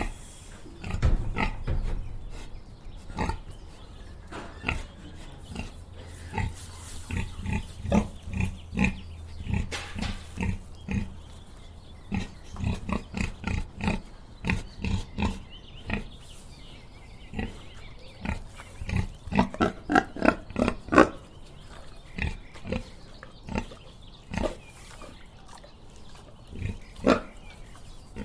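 Domestic pig grunting: a long series of short grunts, with a faster, louder run of them about twenty seconds in.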